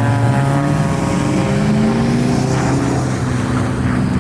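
A car engine running loud under throttle, its pitch climbing slowly as the car accelerates.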